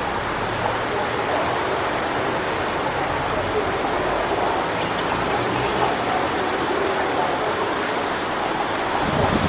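Strong wind blowing through coconut palm fronds: a steady, dense hiss, with a brief low rumble near the end.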